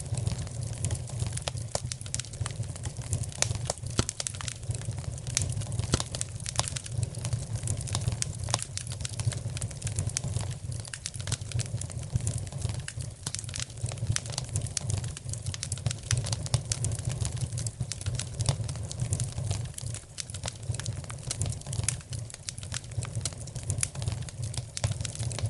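Wood fire in a fireplace crackling, with frequent irregular small pops over a low steady rumble.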